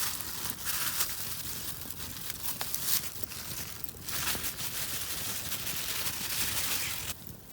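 Aluminium foil crinkling and rustling as cooked steaks are wrapped in it, an irregular crackly rustle that drops away about seven seconds in.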